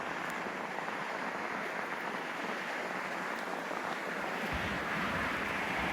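Steady rushing of wind ahead of an approaching thunderstorm, slowly building, with a short low buffet of wind on the microphone about four and a half seconds in.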